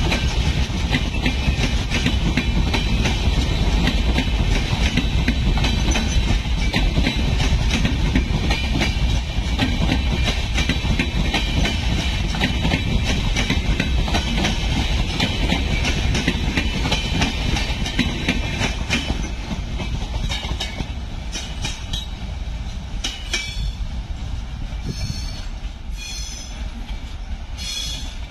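Passenger train coaches rolling past, their wheels clattering over the rail joints in a steady stream of clicks over a low rumble. The sound eases a little near the end, with a few sharper high clicks.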